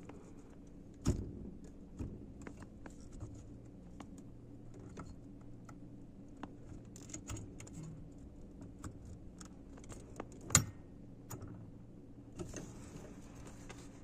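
Light clicks and clatter of small tools and parts being handled during a repair, with two sharper knocks, one about a second in and a louder one past the ten-second mark, and a short hiss near the end.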